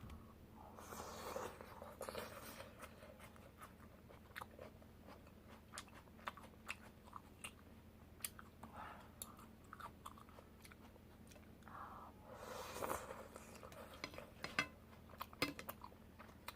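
Close-miked mouth sounds of a person eating soup tteokbokki, chewy rice cakes in spicy broth: chewing with many small wet clicks and smacks. Two longer, noisier stretches come about a second in and again around thirteen seconds.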